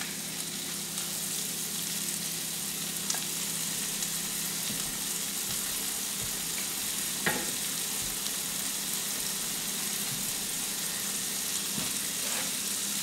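Wild mushrooms frying in hot butter in a cast-iron skillet, a steady sizzle with a few faint ticks. The butter was heated first so the watery mushrooms crisp up rather than stew.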